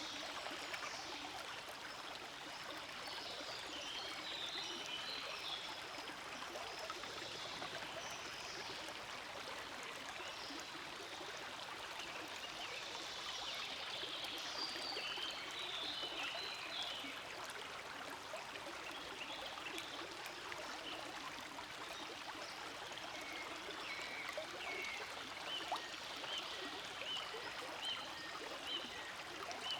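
A forest stream flowing steadily, water rushing and trickling without pause.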